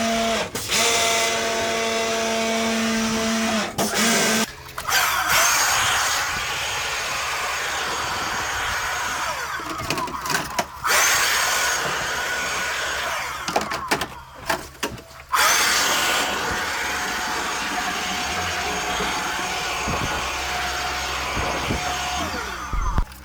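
Electric motor of air-conditioner cleaning equipment running: a steady hum for about four seconds, then a harsher hissing run that cuts out briefly twice, about ten and fourteen seconds in.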